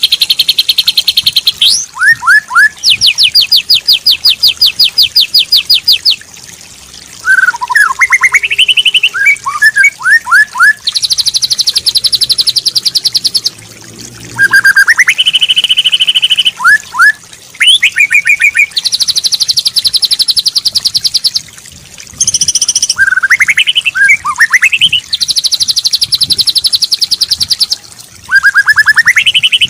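White-rumped shama (murai batu) song with mimicked fill-in phrases. Long, rapid, buzzy trills alternate with short rising and falling whistled phrases in a repeating cycle.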